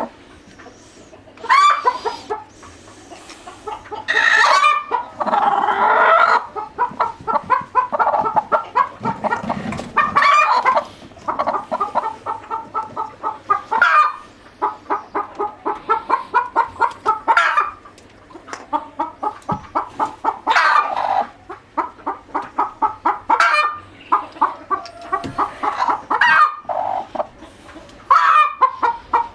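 Chickens clucking in rapid runs, with louder, longer squawking calls breaking in every few seconds.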